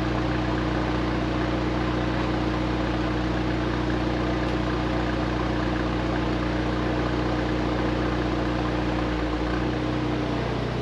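Audi S3's turbocharged four-cylinder engine idling steadily through a new aftermarket cat-back exhaust, with no revs. The idle note changes slightly near the end.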